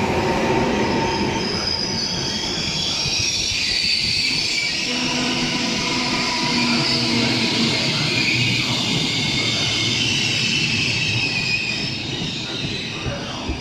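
Passenger train moving slowly along the platform, steel wheels squealing with several high, drawn-out tones over the rumble of the cars; the squeal eases near the end.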